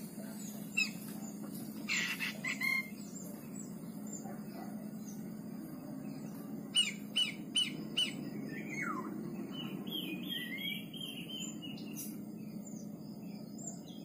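Small birds chirping and calling: scattered sharp chirps, a quick cluster of notes about halfway through, then a run of repeated notes falling slightly in pitch, over a steady low hum.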